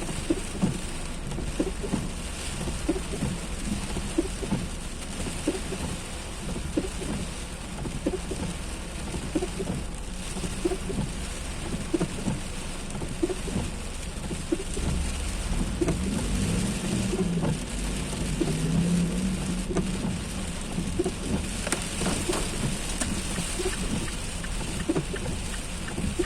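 Heavy rain pouring steadily, with many close drops spattering and dripping. A low rumble swells about fifteen seconds in and fades out a few seconds later.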